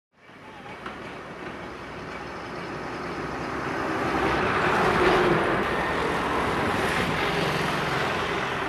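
Road traffic noise fading in from silence: a vehicle's rush swells to a peak about five seconds in, as it passes close by, and then slowly fades.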